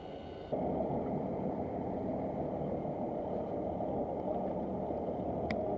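Fishing boat's engine running steadily, a dense rumble that jumps suddenly louder about half a second in, with a light click near the end.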